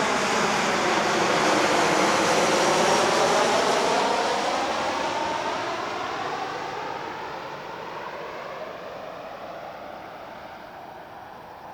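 Jet airliner, an ANA Boeing 737-800 on landing approach, passing low overhead: its engine noise peaks a few seconds in and then fades steadily as it moves away.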